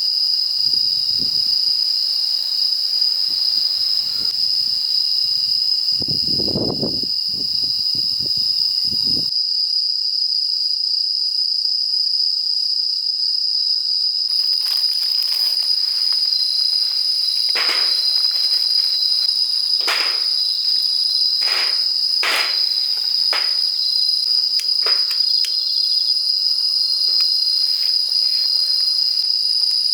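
Chorus of night insects such as crickets, a steady high-pitched trilling throughout. There are low rustles of handling in the first nine seconds, and scattered sharp clicks and snaps from about halfway through.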